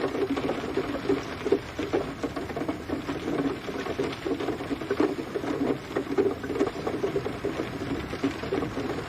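Steady rain pattering, with many separate drops tapping through a dense, even hiss.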